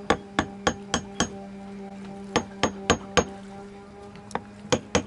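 Sharp metallic clicks and taps from a sailboat winch being dismantled, in three quick runs of about four a second with short pauses between, over a steady low hum.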